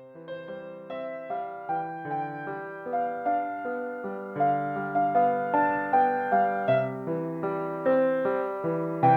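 Soft piano music: a gentle melody of notes struck about twice a second over sustained chords, gradually growing louder.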